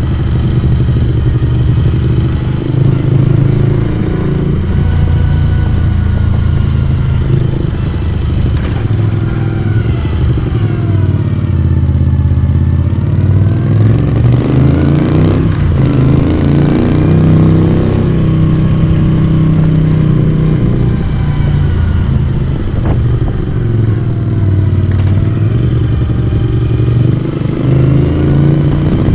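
Moto Guzzi V35's small transverse V-twin under way, its exhaust note rising and falling with the revs through the bends, with a quick drop and climb in pitch about halfway through, like a gear change.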